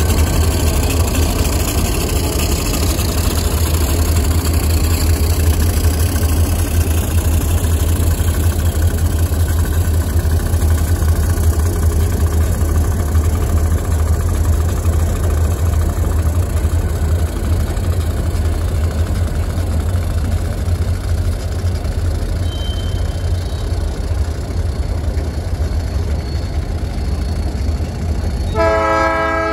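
Freight train diesel locomotives passing close by, a steady low engine rumble with wheel and rail noise as the train moves on. About a second before the end a locomotive horn starts sounding, a multi-note chord held on.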